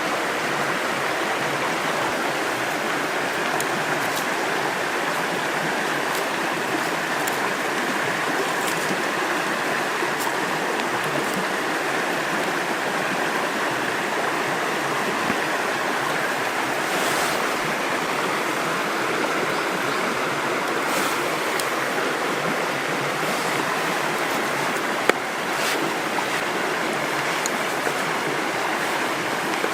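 River water running steadily, with scattered faint ticks and one sharp click near the end.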